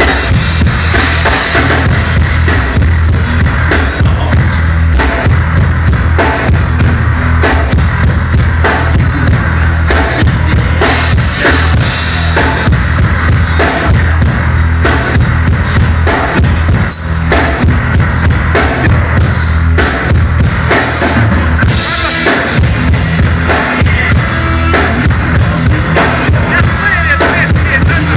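Loud live rock band playing, the drum kit to the fore with a steady beat of kick drum and snare over a heavy, sustained low end.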